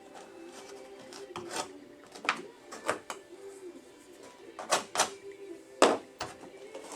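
Irregular sharp clicks and taps as cork roadbed pieces and small tools are handled and set down on a model railroad layout, about ten in all, the loudest a little before the end.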